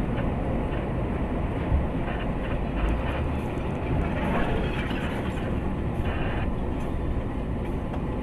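Steady low rumble of a moving vehicle, without a break.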